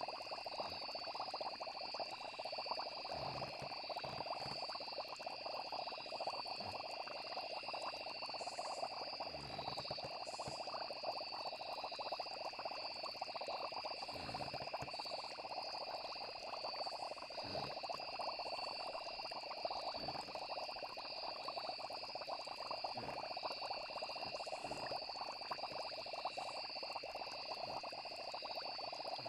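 Night ambience of frogs calling in a dense chorus over a steady high insect trill, with a few soft low pops scattered through.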